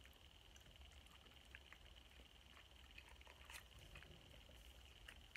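Near silence: faint chewing with small scattered mouth clicks over a steady faint high whine and low hum.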